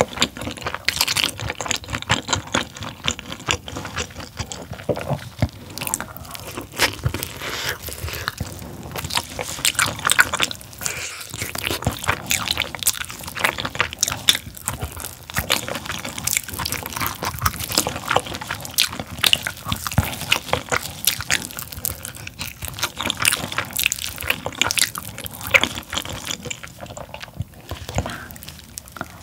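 Close-miked chewing of chewy, springy braised pork tail: a dense, continuous run of wet smacking and clicking mouth sounds.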